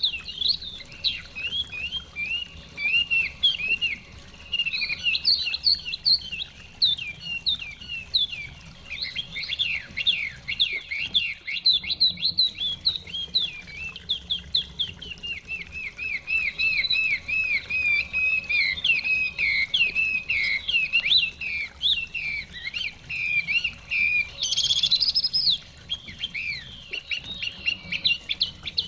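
Chinese hwamei singing a long, varied song of rapid repeated whistled notes and trills, almost without a break, with a brief higher, louder phrase near the end.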